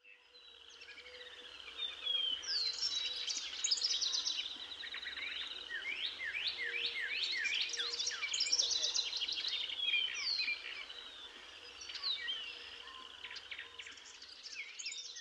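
Songbirds singing, many at once: a dense chorus of quick chirps and sweeping whistles, fading in over the first two seconds.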